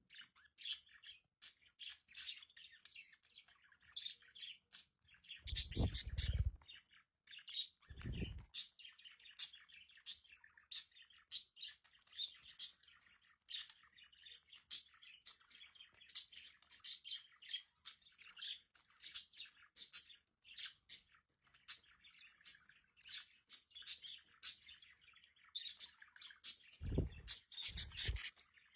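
A flock of pet budgerigars chirping and warbling in continuous chatter, with sharp clicky notes. A few low thumps stand out: one about six seconds in, another at about eight seconds, and two near the end.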